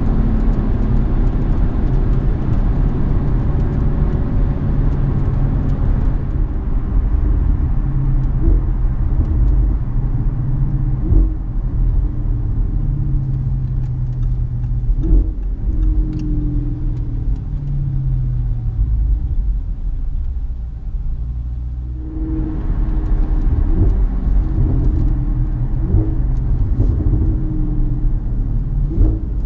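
Audi S6's twin-turbo 4.0-litre V8, with APR Stage 2 downpipes and tune into an AWE exhaust, heard from inside the cabin while driving: a steady low rumble, with the engine note rising in pitch several times as the car accelerates. It quietens briefly about twenty seconds in, then picks up again.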